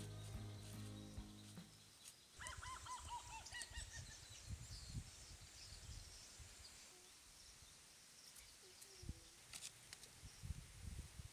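Background music fading out in the first two seconds, then a bird giving a quick run of short call notes. Faint outdoor quiet follows, with a few soft thumps and clicks.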